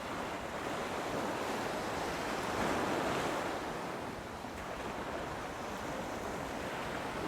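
Steady rush of wind and sea water, swelling slightly about three seconds in.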